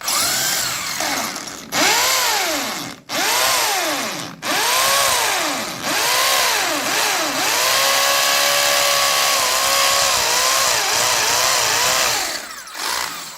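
Electric drill running and drilling, its motor pitch repeatedly rising and sagging as the trigger is worked and the bit bites. It stops briefly twice a few seconds in, then runs more steadily before winding down near the end.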